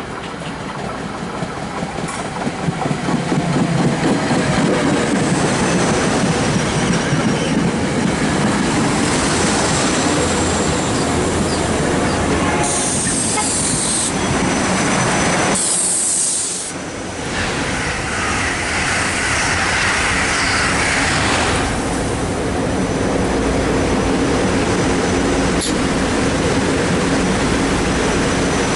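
SEPTA commuter train on the rails: the rumble and clatter of its wheels grow louder over the first few seconds, then hold steady. Two short bursts of high hiss come about halfway through.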